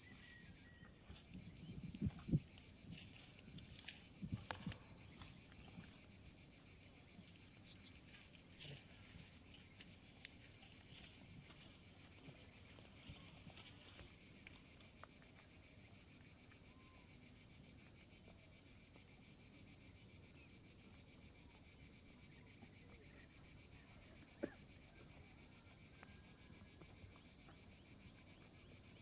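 Faint, steady high-pitched insect chorus buzzing without a break, with a few low rustling knocks in the first few seconds and a single knock near the end.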